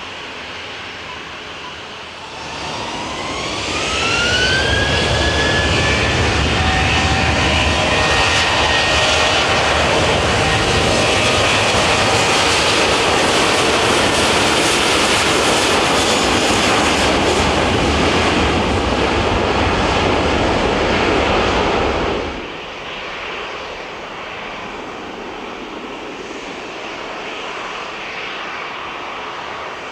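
Airbus A350's Rolls-Royce Trent XWB turbofan engines spooling up: a rising whine about two seconds in, levelling into a loud, steady jet rush of high thrust. The sound cuts off abruptly about 22 seconds in, leaving a quieter background.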